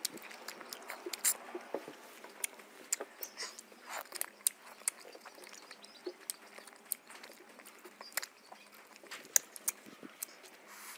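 Wet chewing and mouth smacks while eating ripe mango, close to the microphone, with many irregular sharp clicks.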